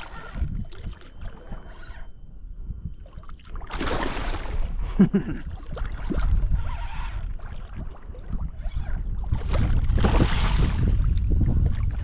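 Water sloshing and splashing around a kayak in surges, about 4 seconds in, again near 7 seconds and for the last couple of seconds, over a steady low rumble of wind on the microphone.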